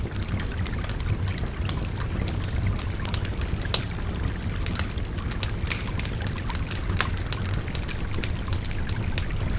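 Wood fire crackling with frequent irregular sharp pops and snaps, over the steady rushing babble of a shallow river.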